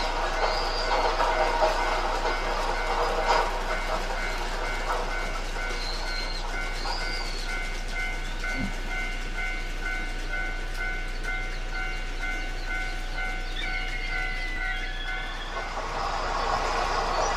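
A train running on rails: a steady running noise with two steady, pulsing whining tones. A few short high chirps come near the start and again about six seconds in.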